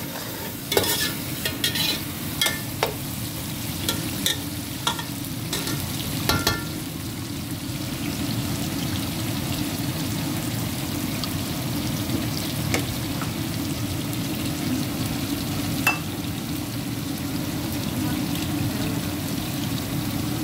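Onion, tomato and green-chilli masala frying in oil in a large aluminium pot, stirred with a metal spoon that clicks and scrapes against the pot several times in the first few seconds and twice more later.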